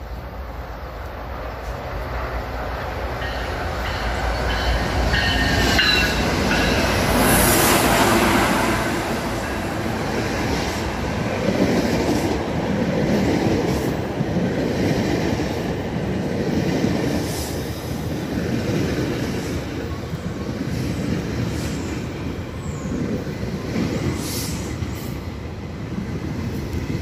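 GO Transit train of bilevel coaches approaching and passing close by: the rumble and clatter of steel wheels on the rail swells to its loudest about seven seconds in and carries on steadily. A few thin high squealing tones sound as it draws near.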